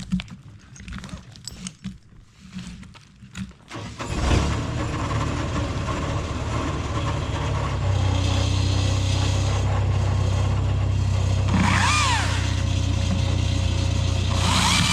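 A few scattered knocks, then a motor starts about four seconds in and runs steadily with a low hum, picking up about four seconds later.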